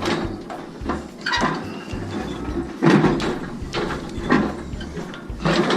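Irregular knocks and scuffs of a person hauling himself up hand over hand, about five of them, the loudest about three seconds in.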